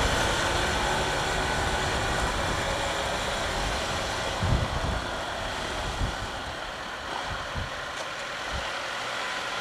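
Bajaj Pulsar NS200's single-cylinder engine and wind noise heard from the rider's helmet while riding in traffic, growing gradually quieter, with a few low thumps in the second half.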